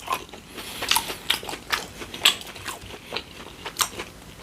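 Close-miked eating: a person chewing with a run of short, wet mouth clicks and smacks, irregular at about two or three a second.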